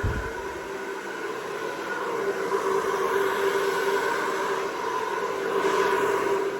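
Hair dryer running steadily, blowing wet acrylic paint across a canvas in a Dutch pour, its motor hum swelling slightly as it is moved about. A short low thud right at the start.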